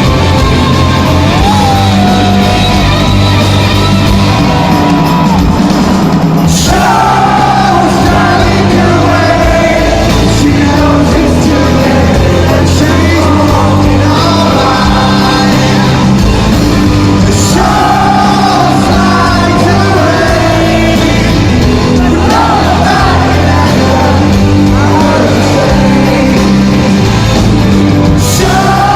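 Live rock band playing a song with sung vocals, the audience singing and shouting along.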